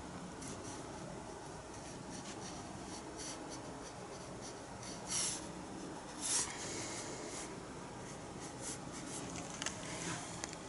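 Paintbrush working acrylic paint: soft, scratchy brushing strokes, with two louder strokes about five and six seconds in.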